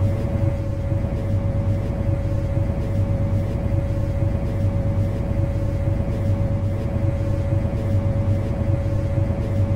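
Steady hum inside the driver's cab of an MTR Kwun Tong line C-Train: a constant low rumble with a single steady mid-pitched tone on top.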